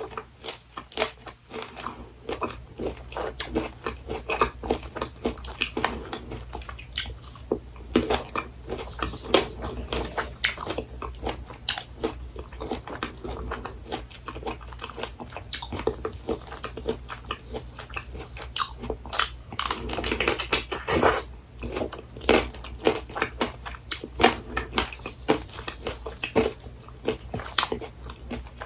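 Chewing and biting of apricot tanghulu, its hard candy-sugar shell crunching and cracking between the teeth in a string of irregular crunches.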